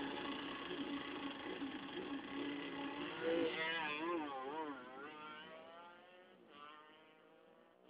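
Motorcycle engines at a drag strip, held steady at first, then revving up and down in quick wavering blips around the middle, and fading away near the end.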